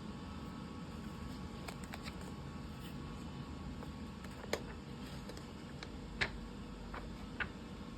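A few scattered sharp clicks and taps, the loudest about four and a half, six and seven and a half seconds in, over a steady low hum.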